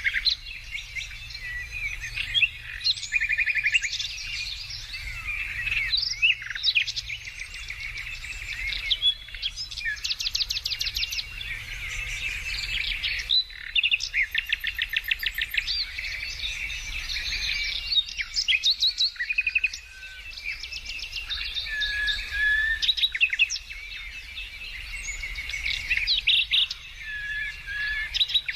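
Several songbirds singing and calling at once, with overlapping chirps and quick, rapidly repeated trills. A steady low rumble runs underneath.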